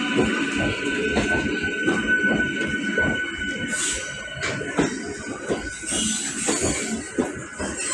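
Electric multiple unit (EMU) local train running into the station, its wheels knocking irregularly over the rails under a steady high whine. Short bursts of hiss come about four seconds in and again near the end.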